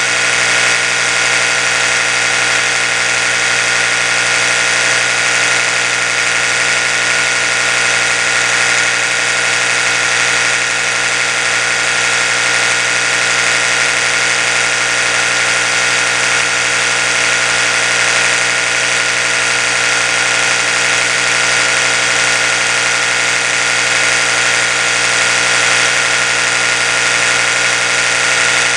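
Oral-B electric toothbrush running continuously: a steady motor hum with several tones layered together, its pitch and level not changing.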